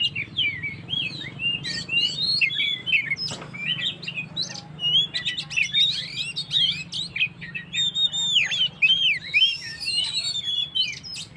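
Oriental magpie-robin (kacer) singing continuously, a fast run of varied chirps and slurred whistles, over a low steady hum.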